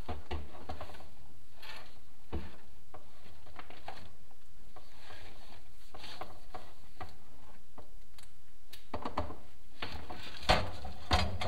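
Chimney inspection camera working down a clay flue-tile liner, its head and cable scraping and tapping against the tiles. There are scattered light scrapes and clicks, then two sharper knocks near the end.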